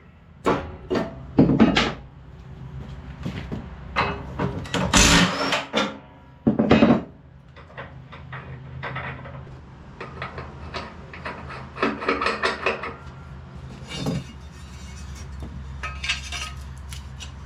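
Hand tools and steel mower blades knocking and clanking at irregular intervals, with the loudest knocks in the first seven seconds and runs of quicker small clicks later: a 15/16-inch wrench working the lawn tractor deck's blade bolts as the blades are taken off.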